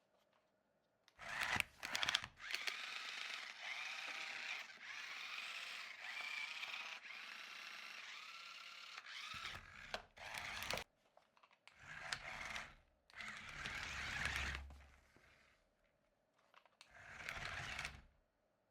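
Toy RC stunt car's small electric motors whirring in bursts. A long run of several seconds with a wavering pitch is followed by four shorter bursts with pauses between.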